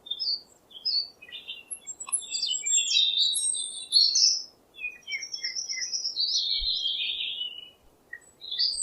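Songbirds chirping and singing: a busy run of short, high chirps and warbling phrases with a couple of brief lulls, over a faint steady hiss.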